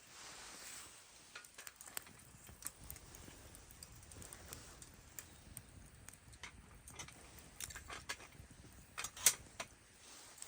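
Wood campfire crackling: irregular small clicks and pops, with one sharper snap about nine seconds in.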